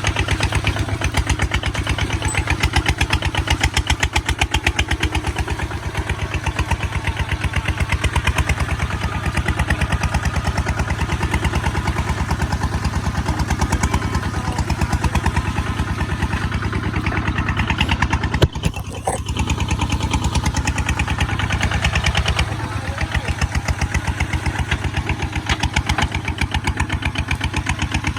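Kubota ZT155 two-wheel walking tractor's single-cylinder diesel engine running steadily under load while plowing, with an even, rapid chug. A single sharp knock about two-thirds of the way through, and the engine note eases slightly shortly after.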